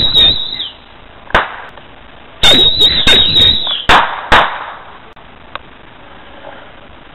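Aerial fireworks exploding: a loud volley of bangs at the start, a single bang about a second and a half in, and a dense run of bangs from about two and a half to four and a half seconds in, with a wavering high whistle over the loudest bursts. A faint pop follows a second later.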